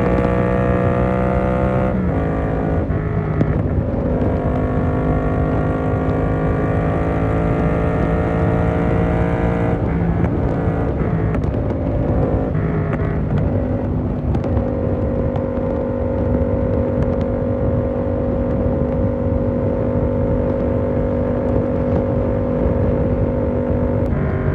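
Yamaha MT-07 parallel-twin engine with an SC Project exhaust, pulling with slowly rising pitch and shifting up about two seconds in. It climbs again, changes pitch a few times around the middle, then holds a steady pitch at a constant cruise until it drops near the end.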